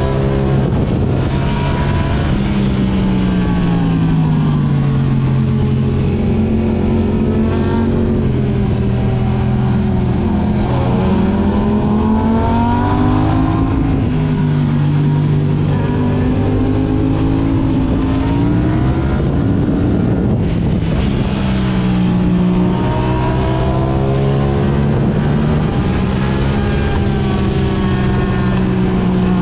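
Yamaha R6's inline-four engine through an Akrapovic exhaust, its pitch repeatedly climbing as the bike accelerates and falling as the rider eases off. Steady wind rush sits under it throughout.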